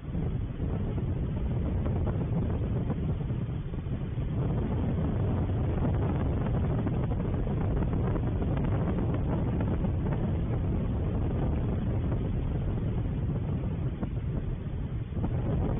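Wind buffeting an outdoor camera's microphone: a steady low rumble.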